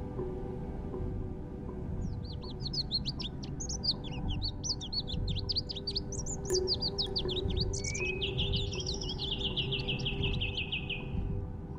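A songbird singing a fast, varied song of sharp chirping notes, which turns a bit past halfway into a rapid, even trill of repeated notes.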